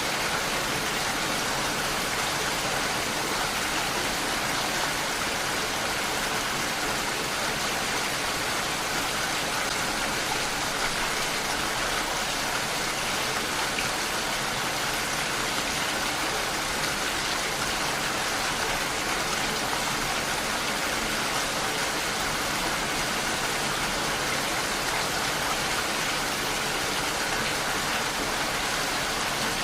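Steady rainfall, an even hiss of rain without pauses or distinct events.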